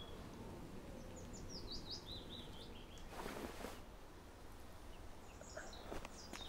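Quiet street ambience: a small songbird chirping in quick series of short falling notes, twice, over a steady low background rumble. There is a brief soft rush of noise about three seconds in.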